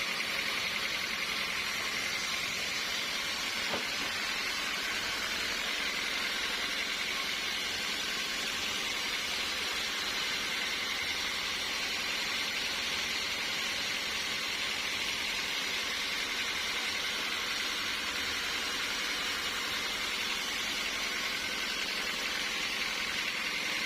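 Sawmill machinery running steadily: an even hiss with a constant high whine and no breaks.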